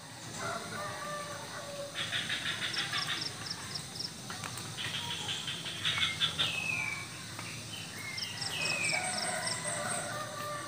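Several birds calling at once: bursts of rapid chattering about two and five seconds in, short falling chirps, and a high, thin note repeated quickly.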